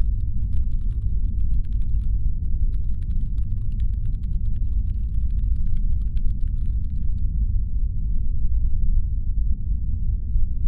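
Steady deep brown-noise rumble standing in for a spaceship's engine hum. Faint rapid clicking rides over it and stops about two-thirds of the way through.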